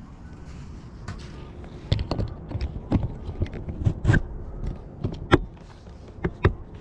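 Irregular sharp knocks and clicks, a dozen or more spaced unevenly over several seconds, some much louder than others, over a faint steady background.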